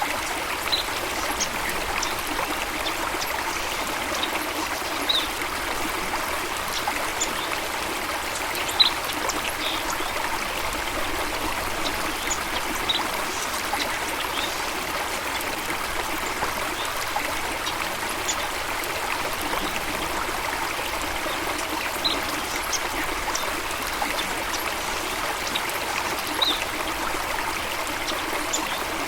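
Running water flowing steadily, a stream or small waterfall trickling and splashing, with brief high-pitched sounds dotted through it every second or two.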